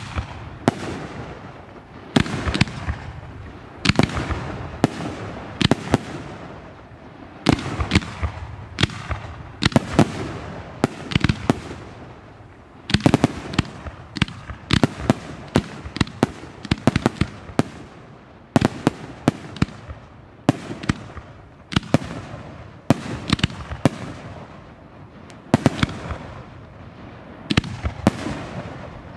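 Aerial firework shells bursting in a sustained barrage: sharp bangs one after another in irregular clusters, at times several a second.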